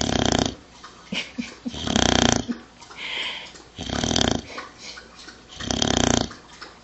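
A dog snoring in its sleep: four loud snores about two seconds apart, with a softer breath between two of them.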